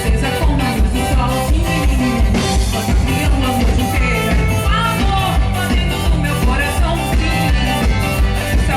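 A band playing an upbeat song, with a steady, driving beat in the bass and drums.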